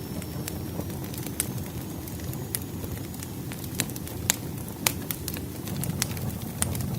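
Campfire burning: irregular sharp crackles and pops over a low, steady rumble of flame.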